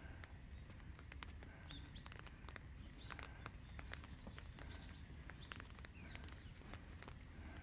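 Faint outdoor ambience: small birds chirping on and off in short, sweeping calls, with scattered ticks of falling rain over a steady low rumble.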